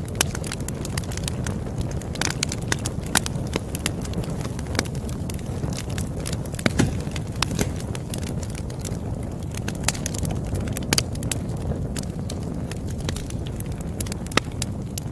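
Campfire crackling: a steady low rumble of burning wood with irregular sharp pops and snaps scattered throughout.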